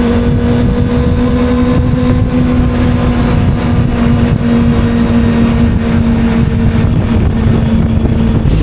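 Kawasaki 250 cc sport motorcycle's engine running at a steady cruise, its pitch holding level and easing slightly lower near the end, under heavy wind rumble on the helmet-mounted microphone.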